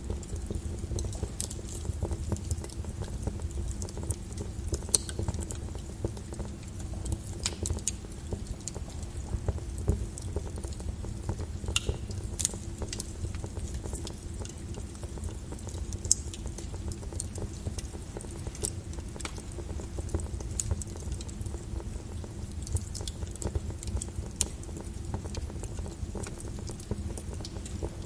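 Rain falling steadily over a low rumble, mixed with a crackling wood fire giving scattered sharp pops and snaps.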